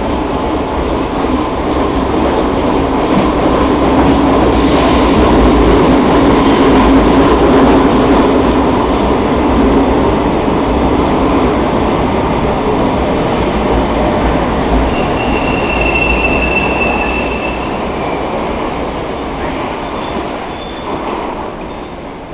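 Metro work train running through an underground station. Its loud rumble swells and then slowly fades as it passes, with a high-pitched wheel squeal about fifteen seconds in.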